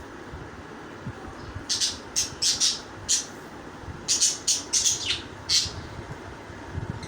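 Parrot calling in short, harsh squawks, in two quick runs of about five or six calls each.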